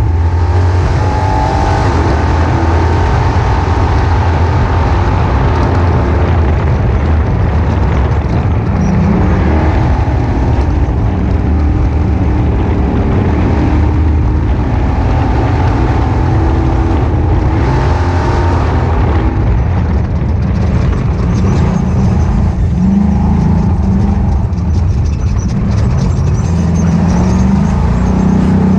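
Ultra4 off-road race car's engine running hard and loud, its revs rising and falling over and over as it is driven.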